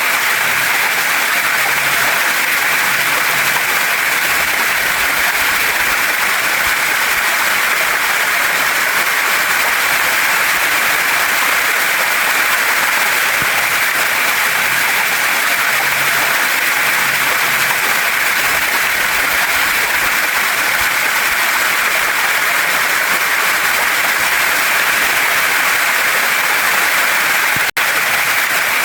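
Steady rush of a waterfall and stream, an even hiss of water that does not change, with a momentary drop-out about a second before the end.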